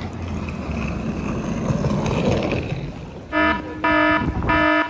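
Steady outdoor background noise, then about three seconds in a loud electronic warning beeper sounds three times in quick succession, each beep a single buzzy tone about half a second long.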